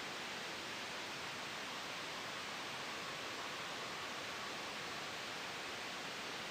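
Steady, even white noise mixed with a soft wind-like breeze, unchanging throughout.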